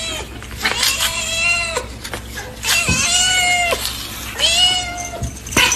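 Domestic cat meowing: three drawn-out calls of about a second each, level in pitch and dropping at the end, with a few short clicks between them.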